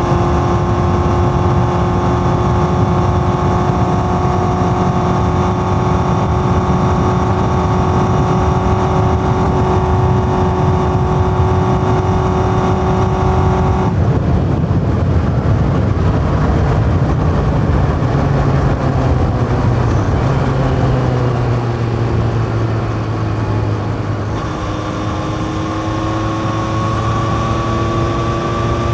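1981 Yamaha XJ550's air-cooled inline-four running through a 4-into-1 exhaust with open K&N filters, held at steady revs while riding. About halfway through the throttle is closed and the revs fall away, then near the end it is opened again and the revs slowly climb.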